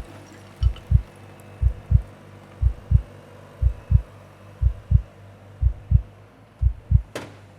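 Heartbeat-style sound effect: low double thumps, about one pair a second, over a steady low hum, with a short whoosh about seven seconds in.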